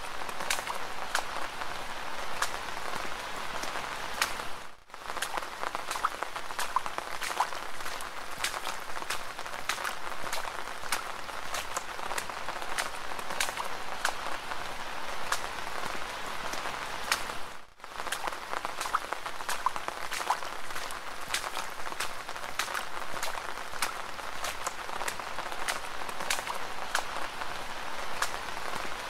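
Steady rain falling, a dense hiss full of sharp individual drop ticks. It cuts out briefly about five seconds in and again near eighteen seconds.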